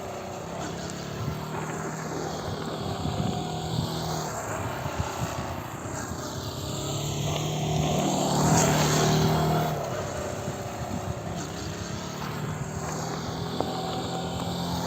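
Motorcycle engine running under a wide rushing hiss. The engine note swells to its loudest about eight seconds in, then drops back.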